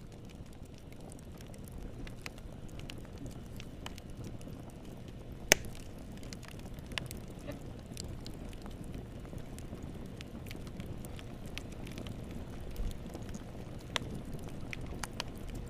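Wood fire burning in a fireplace: a steady low rumble of flames with scattered crackles and pops, the loudest pop about five and a half seconds in.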